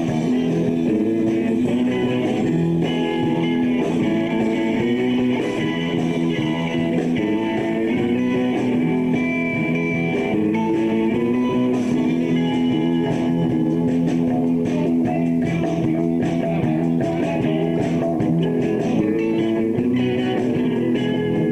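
Live rock band playing an instrumental passage without vocals, electric guitar to the fore over a steady, full band sound.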